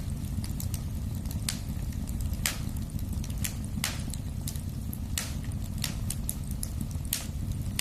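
Fireplace fire burning: a steady low rumble of flames under irregular crackling, with a loud sharp pop every second or so among many fainter snaps.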